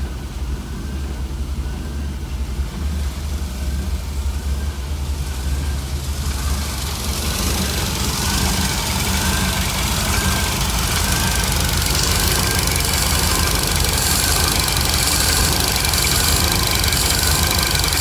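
The 1966 Cadillac's 7.0-litre V8, running on a Holley Sniper fuel-injection throttle body, idles with a hunting idle as the idle air control motor keeps opening and closing. About six seconds in, the engine sound grows louder and brighter.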